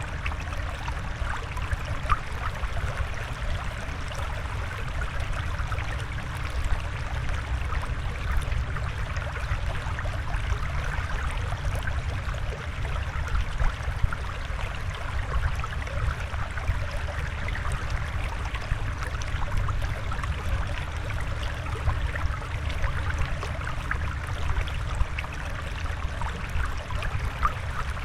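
Water flowing and trickling steadily, with many small splashes and drips.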